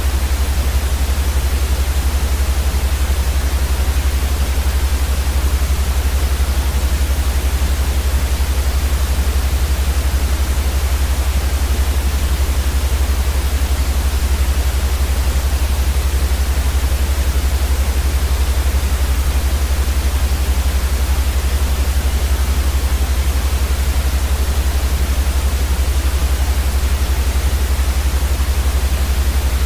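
Steady white noise for sleep, an even hiss without any change, over a strong, constant deep rumble.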